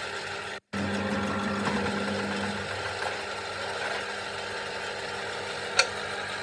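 A motor running steadily with a low hum, cut off briefly just under a second in, with a single sharp click near the end.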